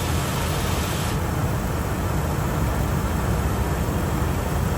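A 2001 Ford F350's 5.4-liter V8 idling steadily, a low, even running sound that sounds pretty good. A higher hiss over it lessens about a second in.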